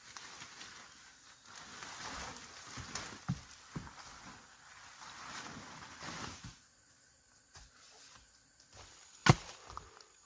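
Rustling and brushing in vegetation with a few small knocks, then near the end a single sharp chopping strike, followed by two lighter knocks.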